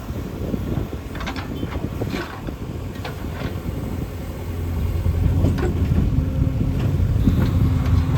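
Diesel engine of heavy construction machinery running, growing louder about five seconds in, with scattered short knocks and clatters over it.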